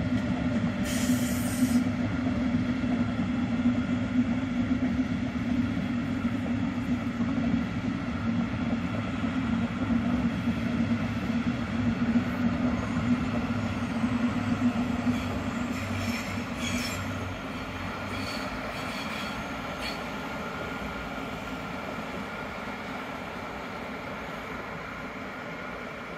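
Regional trains rolling in, a double-deck express train and diesel railcars, giving a steady low drone of running gear and engines. There is a short hiss about a second in and brief wheel squeals around 16 to 20 seconds in, after which the sound eases off.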